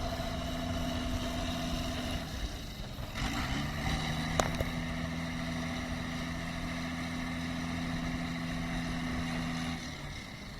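Tractor engine running steadily under load; its pitch dips and settles lower about two to three seconds in, with a sharp click just after, and it drops away near the end.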